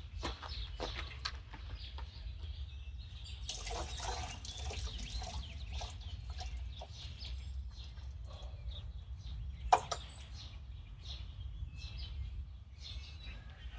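Leftover fuel being poured out of a small engine's fuel tank: a pour of about two seconds, followed by scattered clicks and knocks of the tank and tools being handled, over a steady low hum.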